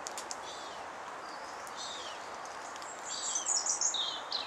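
A small bird chirping in short, high, quick phrases over steady outdoor background hiss, sparse at first and loudest about three seconds in.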